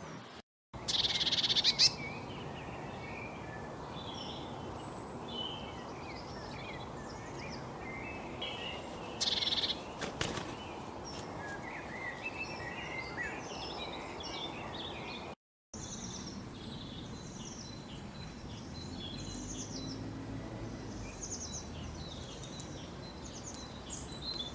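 Several small birds chirping and twittering, their short high calls overlapping over a steady hiss of outdoor background noise; two louder chattering calls stand out, near the start and about nine seconds in. The sound drops out briefly twice.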